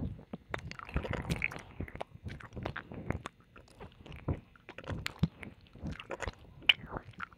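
Close-up ASMR mouth sounds: wet licking, smacking and lip clicks against an ear microphone, a rapid irregular string of small sharp clicks with a soft breath or slurp about a second in.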